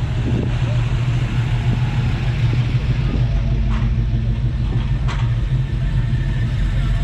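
A car engine idling steadily close by, with two short clicks a little past the middle.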